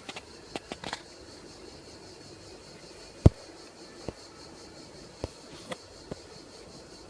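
Insects chirring in a steady, high, shimmering drone. Scattered short clicks and knocks fall across it, the loudest about three seconds in.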